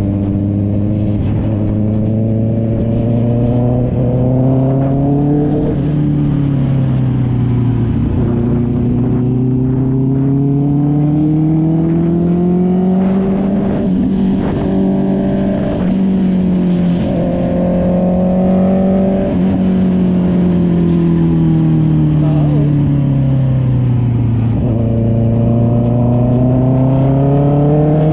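Honda CB650R's inline-four engine through an SC Project aftermarket exhaust, ridden through the gears. The engine pitch climbs and drops sharply at a shift about five seconds in, climbs again, holds steady for a while, winds down slowly as the bike slows, then climbs again near the end.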